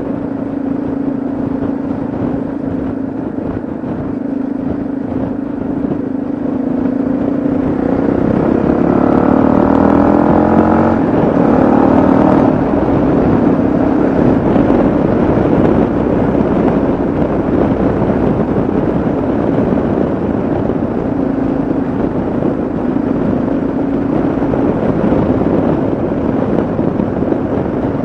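Yamaha XT660Z Ténéré's single-cylinder engine running at road speed with wind noise, the engine note rising twice under acceleration about a third of the way in, each time dropping back at a gear change, then settling to a steady cruise.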